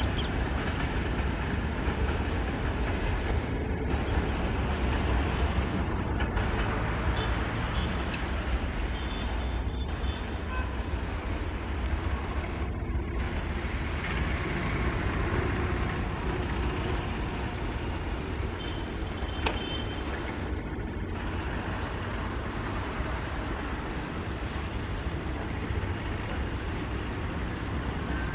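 Passenger train's coaches rolling away along the track: a steady rumble and rattle of wheels on rail that slowly fades as the train recedes.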